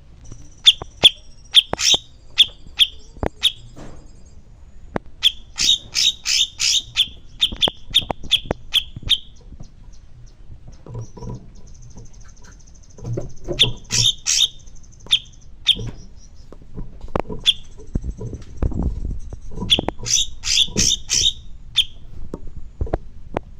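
Cucak cungkok songbird singing: runs of three to six sharp, ringing chirps in quick succession, broken by a high, thin trill held for a few seconds at a time.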